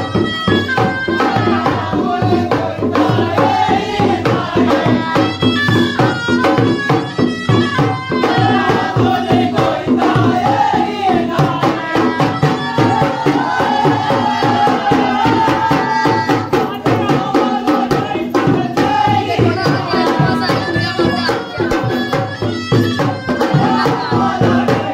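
Indian folk music with fast, dense drumming and a singing voice carrying the melody.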